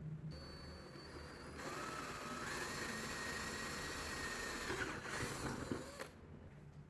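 Small electric power tool, such as a drill, running for about four seconds: its whine rises briefly as it comes up to speed, holds steady, then stops.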